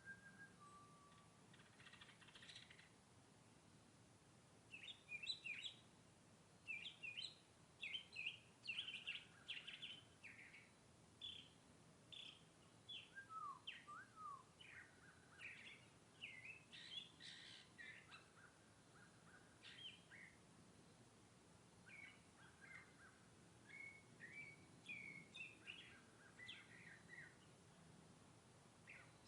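Northern mockingbird singing a long string of short, varied chirps and trilled phrases, faint but continuous, growing dense about five seconds in.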